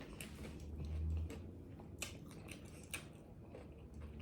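Close-miked chewing and biting: a few sharp crunches and mouth clicks, with a low hum that swells briefly about a second in.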